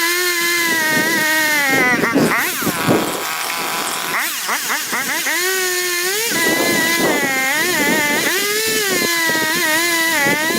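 Chainsaw running at high speed through cuts, its pitch sagging under load about two seconds in and again around four to six seconds, then climbing back.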